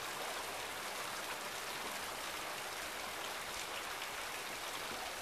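Steady rain falling: an even hiss of many small drops, at a constant level.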